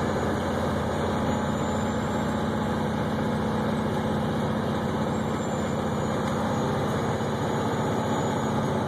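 Steady drone of a vehicle's engine and road noise heard from inside the cab while driving at a constant speed.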